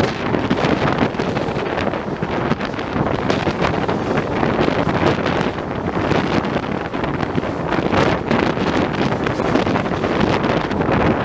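Moving passenger train heard from on board: a steady loud rush of running noise with irregular rattling clatter, and wind buffeting the microphone.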